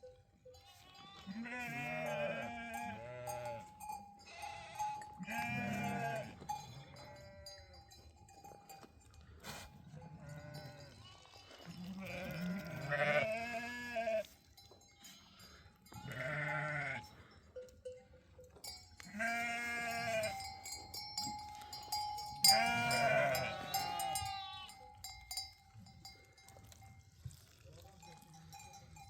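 Flock of sheep and goats bleating, with calls coming every few seconds and often overlapping. Livestock bells clink among them. The calls thin out near the end.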